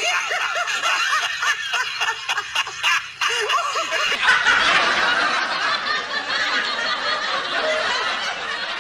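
Laughter, many short snickering bursts, giving way about four seconds in to a dense noisy wash.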